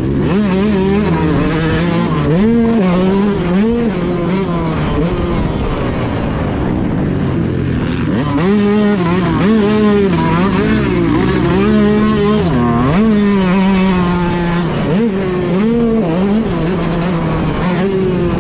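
Yamaha YZ125 two-stroke motocross bike racing, heard close up: the engine revs up and down over and over as the throttle opens and shuts. It eases off for a few seconds in the middle, then pulls hard again.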